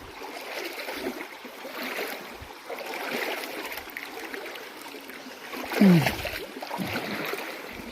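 Shallow river running over rocks, a steady rushing. About six seconds in, a short voice sound falls in pitch.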